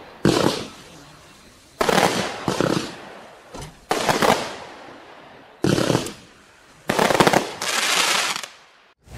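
Klasek C25220XFS fireworks cake firing in volleys: about six sharp salvos, a second or two apart, each trailing off into a crackling tail that fades within about a second.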